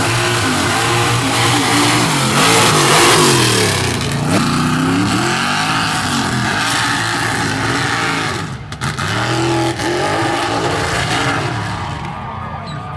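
Mud truck engine revving hard, its pitch climbing and falling again and again in quick swoops, over a thick noisy wash. The sound dips briefly about two-thirds of the way through.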